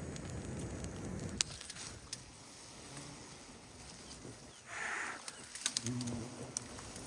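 Rustling and light steps through undergrowth, with two short low coos from a bird about three and six seconds in.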